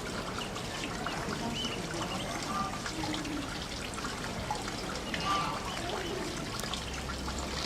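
Running water trickling steadily, with a few faint short chirps over it.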